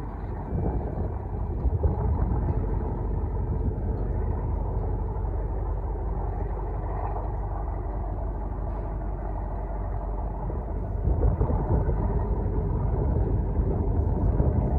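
Steady low rumble of a ship's engine, growing louder about eleven seconds in.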